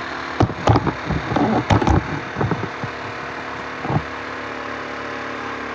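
50cc four-stroke scooter engine running steadily at a high idle on a cold start, still warming up, with the idle yet to slow down. Several sharp knocks in the first two seconds and one more about four seconds in stand out above it.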